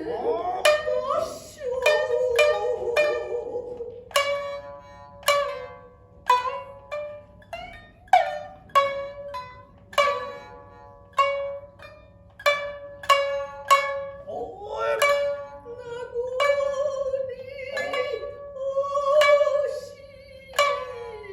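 Shinnai-bushi jōruri: shamisen plucked in a spare, uneven pattern of sharp ringing notes, joined by the chanter's long, wavering held sung notes near the start and again from about two-thirds through.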